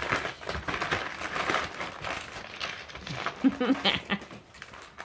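Six-week-old English Springer Spaniel puppies at play, crinkling and rustling something as they go: a steady run of small crackly sounds.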